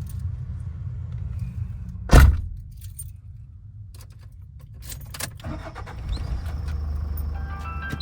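A vehicle door shuts with one loud thump about two seconds in, and the low rumble drops away. Clicks and a jingle of keys follow, and then a low steady vehicle hum comes back.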